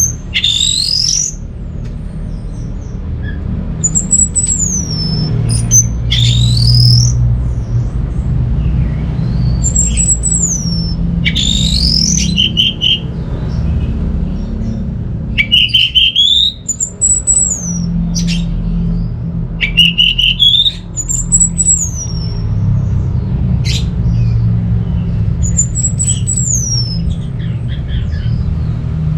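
Orange-headed thrush singing: repeated high whistles that slide downward, rising sweeps and short chirps every couple of seconds, over a steady low hum.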